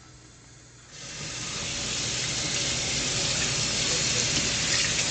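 Water running from a bathtub tap. It comes on about a second in and then runs steadily.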